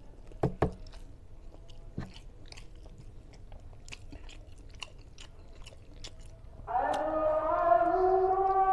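Close-up eating sounds of someone eating rice and gulai-cooked tilapia head by hand: wet chewing with lip smacks, two sharp smacks about half a second in and another at two seconds. Music with long held notes comes in about seven seconds in.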